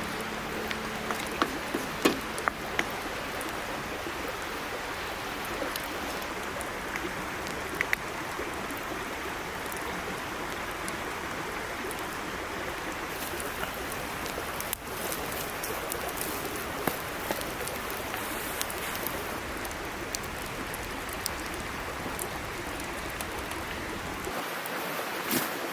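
Small mountain stream running with a steady rush and babble of water, with scattered sharp clicks, several close together about two seconds in.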